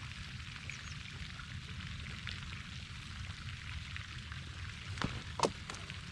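Steady outdoor background noise with scattered faint ticks and two short knocks about five seconds in.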